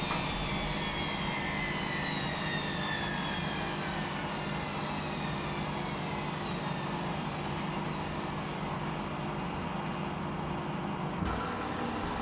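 Washing machine motor and drum winding down, a whine falling slowly in pitch over a steady low hum. About eleven seconds in, a sudden click, and the motor starts up again with a new steady tone.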